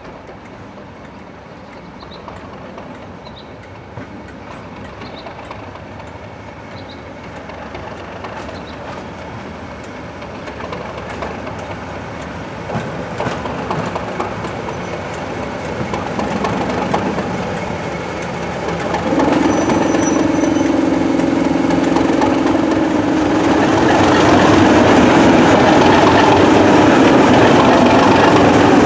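A train approaching on a heritage railway, growing steadily louder, its wheels clattering over the rail joints. About two-thirds of the way through, a strong steady low engine hum joins in as it draws close.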